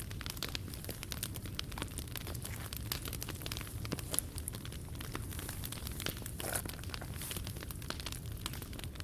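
Wood fire crackling, with many small irregular pops and snaps over a low steady rumble, and a slightly louder pop about four seconds in.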